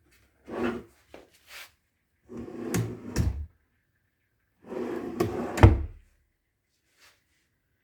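A drawer of a TV stand sliding open and shut, in two longer strokes each ending in sharp knocks as it stops, the loudest knock near the end, after a few shorter scrapes and clicks.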